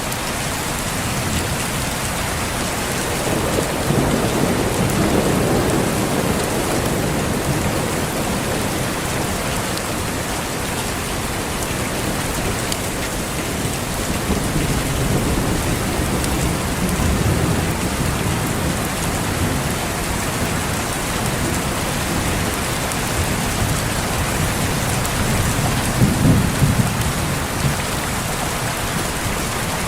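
Steady heavy rain with rumbles of thunder, three rolls swelling and fading, the strongest and sharpest near the end.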